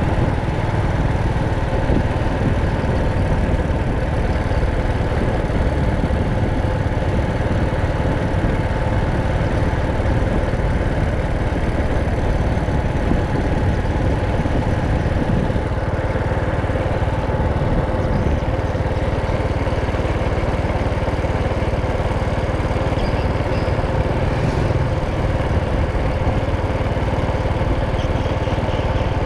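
Motorcycle engine running at a steady speed during a ride, with a constant low rumble of wind and road noise on the camera microphone.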